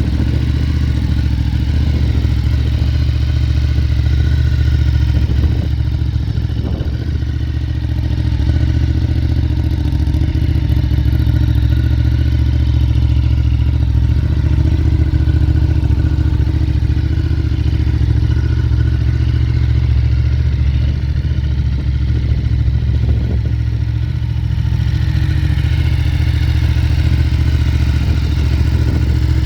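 Ducati Hypermotard 939 SP's L-twin engine idling steadily through a Termignoni exhaust, with a deep, even beat.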